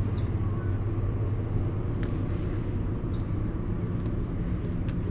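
Steady low drone of a car's engine running, even and unchanging.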